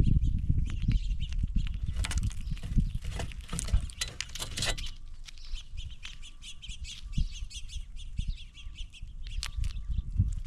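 Birds chirping and calling, with a fast run of high repeated notes in the second half. Under them are low thumps and scuffs of animals moving about on the feeding table close to the microphone.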